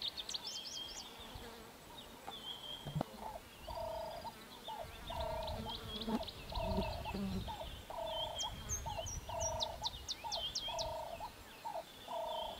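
Birds calling in the bush: one call repeated about once a second, with quick high chirps and trills over it, and a low rumble in the middle.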